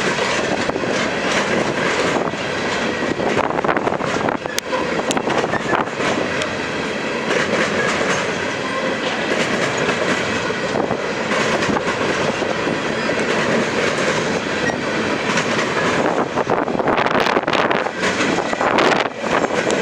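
Freight cars of a manifest train rolling past, with steel wheels clacking and clicking over the rail joints in a steady, continuous rumble.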